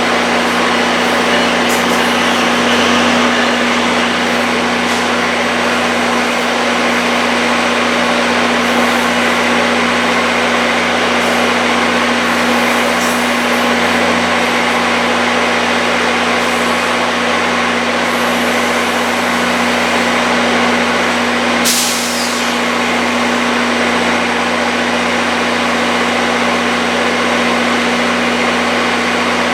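Steady hum and rumble of a standing train's engine and equipment at the platform, with a strong constant drone. A short burst of hiss about three-quarters of the way through.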